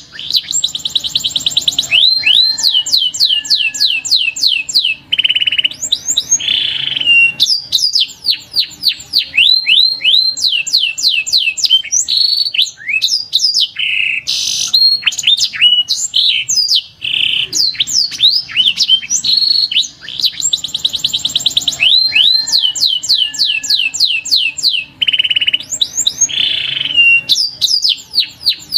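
Domestic canary singing: long, rapid rolls of quick descending whistled notes alternating with buzzy trills. The same sequence of phrases comes round again about twenty seconds in.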